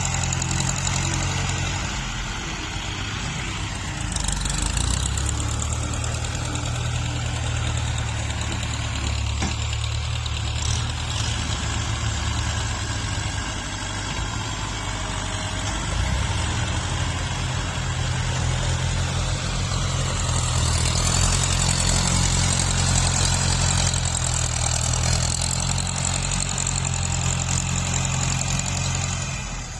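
Tractor diesel engine running steadily while grading soil. The engine note swells and eases with the load, loudest for several seconds past the middle.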